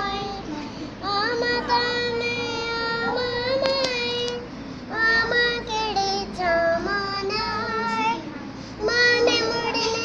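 A young girl singing a Punjabi song in a high voice, holding long notes that bend and ornament, with short breaks between phrases.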